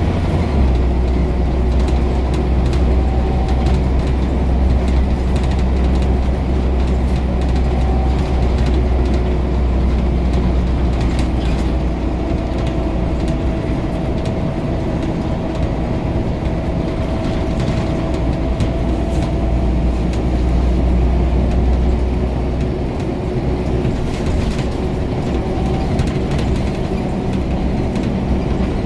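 Scania OmniCity single-deck bus driving along: a steady low engine drone with a faint, wavering driveline whine and light rattles, the drone shifting as the bus changes gear or speed about half a second in and again around the middle and two-thirds through.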